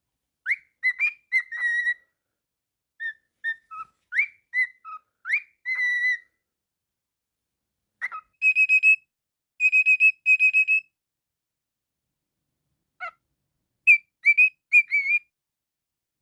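Cockatiel whistling a tune in short phrases of clear notes and rising upward sweeps, with pauses of a second or two between phrases.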